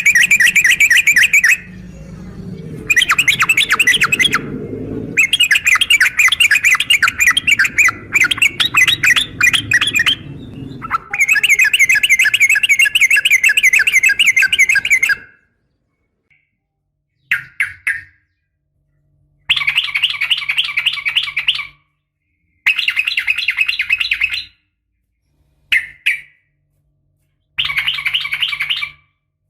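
Yellow-vented bulbul (trucukan) calls, a female calling for a male: rapid chattering trills in long phrases over the first half, then shorter bursts of a second or two separated by pauses.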